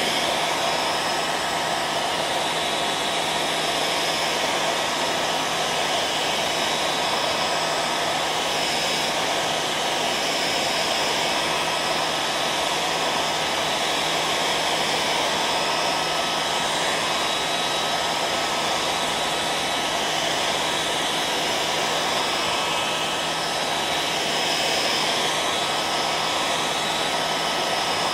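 Hair dryer running steadily at constant speed: an even blowing rush with a faint steady motor hum and whine.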